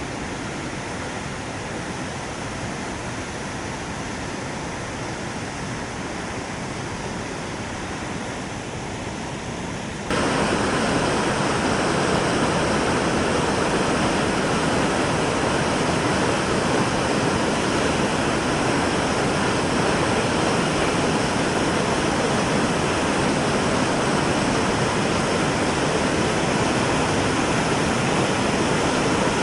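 Waterfall swollen by heavy rain, its water rushing steadily; about ten seconds in the sound jumps suddenly louder and stays so.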